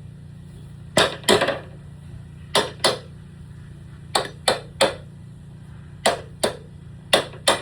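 A hammer striking sharply, in quick pairs and triples of blows with short pauses between groups, each blow ringing briefly: hammering during a ladder repair.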